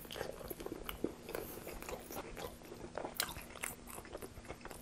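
Close-miked biting and chewing of a mouthful of Subway Italian BMT flatbread sandwich: many small, irregular crunches throughout.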